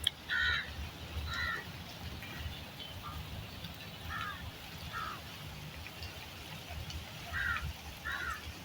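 A bird calling: about six short calls spaced irregularly, over a low steady rumble.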